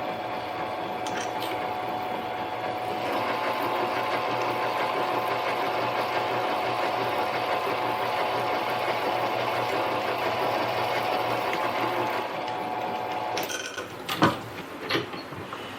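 Harbor Freight mini lathe running with a steady motor and gear whine while drilling the large hole through a steel spacer; the cutting noise thickens about three seconds in. The lathe stops shortly before the end, followed by two sharp clunks.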